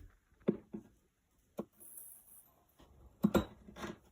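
Irregular short knocks and clunks of bolts and wooden cabinet parts being handled while kitchen units are bolted together, with the loudest pair of knocks near the end.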